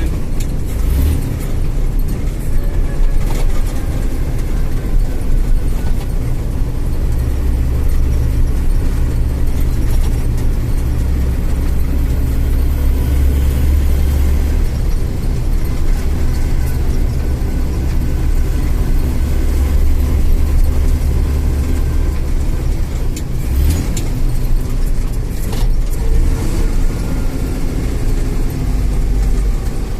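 IFA L60 truck's diesel engine running while the truck is driven, a heavy low rumble that strengthens about a quarter of the way in and eases off after about two thirds, with a few short knocks near the start and end.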